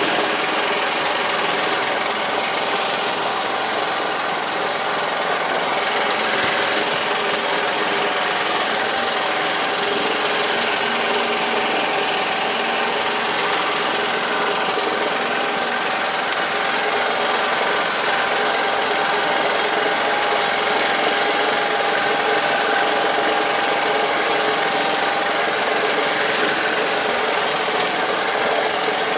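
Karakat all-terrain vehicle's engine running at a steady speed, with a steady high whine over dense mechanical noise.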